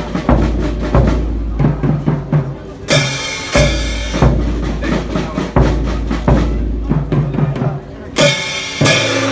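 Festival drum music from a children's hayashi band playing on a float: busy drumming with loud crash strikes about three seconds in and again near the end.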